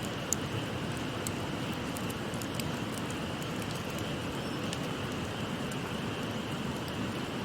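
Wood fire crackling with scattered sharp pops, over the steady rush of a small river.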